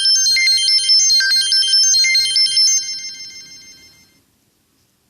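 A short electronic melody of high beeping notes, like a phone ringtone, that plays for about three seconds and then fades out.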